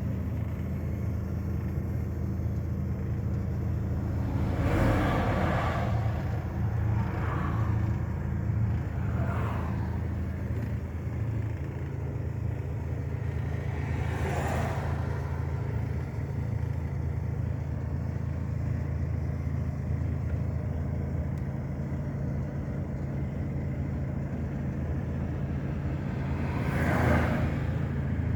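Steady low drone of a car engine and road noise, with vehicles swishing past five times, the loudest near the end.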